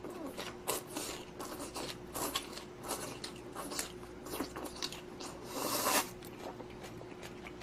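Close-miked eating of ramen and kimchi: a run of small crunches and wet clicks of chewing, with one longer, louder stretch of noise about five and a half seconds in.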